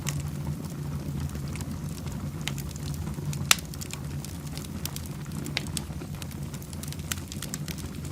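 Wood fire burning in a fireplace, crackling with scattered sharp pops over a steady low rumble; one louder pop about three and a half seconds in.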